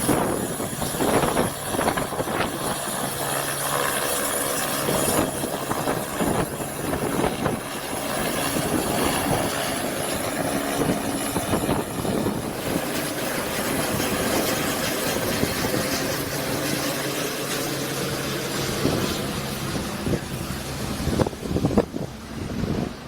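Eurocopter BK117-C1 helicopter's twin turboshaft engines and rotor running: a steady roar with a thin, high turbine whine.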